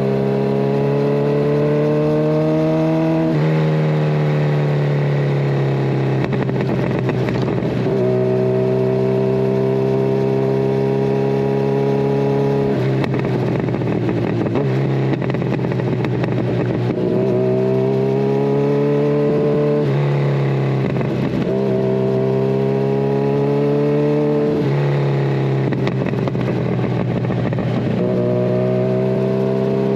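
Kawasaki Ninja 1000SX inline-four engine heard through a de-catted Scorpion Red Power exhaust while riding. The engine note keeps climbing in pitch, then drops sharply several times as the rider works the throttle and changes gear.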